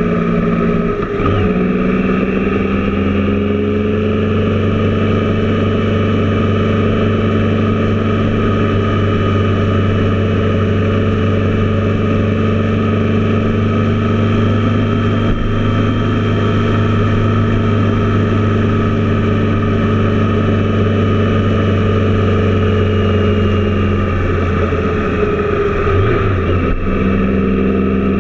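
Triumph Tiger Explorer's three-cylinder engine running steadily, its pitch holding even for most of the stretch, with a brief change in the engine note about a second in and again near the end.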